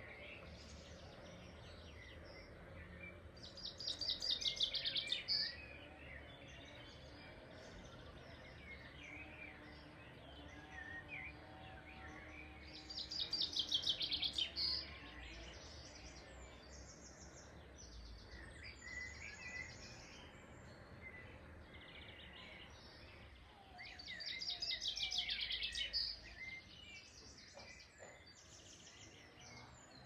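Birdsong: one bird sings a loud, rapid trill three times, about ten seconds apart, over scattered chirps from other birds.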